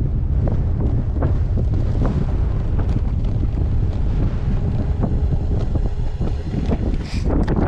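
Wind buffeting a GoPro's microphone as a gravel bike is ridden along, a constant low rumble, with frequent short clicks and rattles from the bike and its tyres on the rough track.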